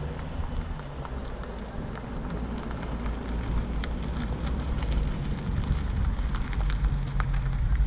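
A vehicle engine running with a low, steady rumble, with scattered light ticks and crackles over it.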